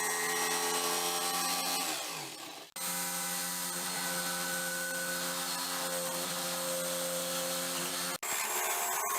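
Handheld electric power tool motor running at a steady whine, winding down in pitch about two seconds in, stopping briefly and starting again, with another momentary stop near the end.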